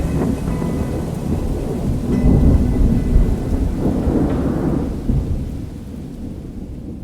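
Thunderstorm: rolling thunder over steady rain, fading out over the last couple of seconds.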